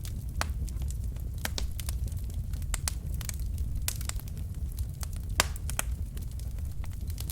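Wood logs burning in a fireplace: irregular crackles and pops over a steady low rumble of the fire, with one louder pop about five seconds in.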